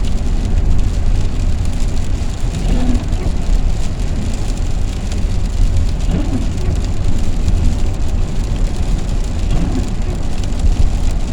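Rain falling on the van, heard from inside over a steady low vehicle rumble.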